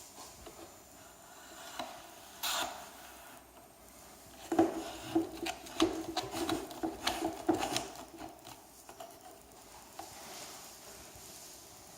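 Handling noise: light clicks, knocks and rubbing, with one short burst early and a busy run of sharp knocks through the middle.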